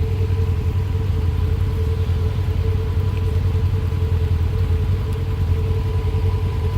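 Polaris RZR side-by-side's engine running steadily, its deep engine note holding at one pitch with no revving.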